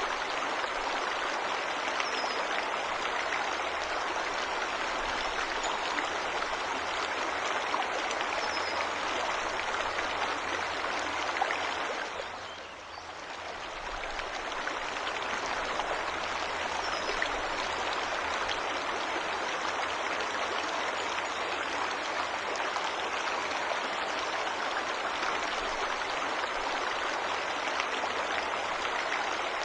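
Steady rushing of a forest waterfall, with the sound fading down briefly and coming back about halfway through. A few faint short bird chirps sound above the water.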